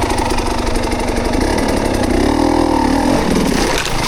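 Dirt bike engine running at low speed along a trail. About two seconds in, the pitch rises and falls back as the throttle is blipped.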